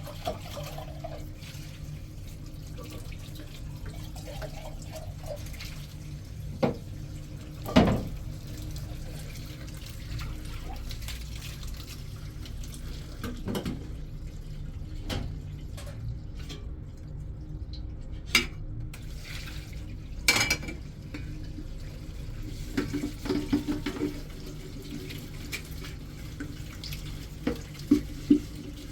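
Water running steadily from a tap into a sink, with occasional sharp knocks and a brief spell of clinking and clattering in the second half.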